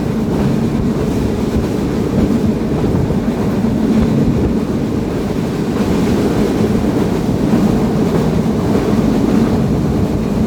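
Sundarban Express passenger train running on the rails: a steady, loud, low rumble of wheels and carriages.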